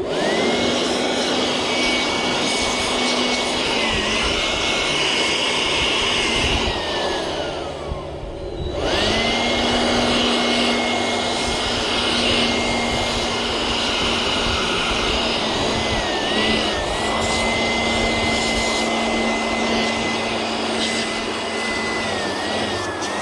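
Bee blower (an electric blower) running with a steady high whine, blowing bees off honey frames before the super is taken. It winds down about seven seconds in, starts up again a second or two later, and winds down again at the end.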